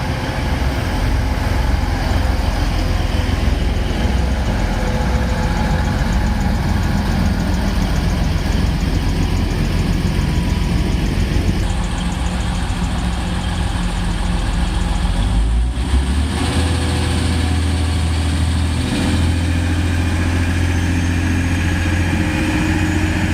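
Diesel multiple unit train's underfloor engines running at the platform; about two-thirds of the way in the engine note changes and holds steadier and deeper, with a faint rising whine near the end as it gets under way.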